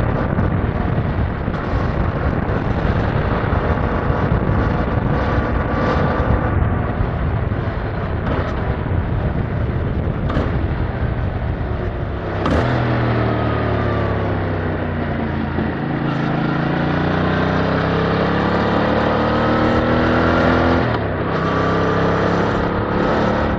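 Yamaha MT-07's 689 cc parallel-twin engine heard through its stock exhaust while riding. It rumbles hard for the first half. About halfway through, the note falls away for a few seconds, then rises steadily through the revs. Near the end it shifts up with a brief drop and climbs again.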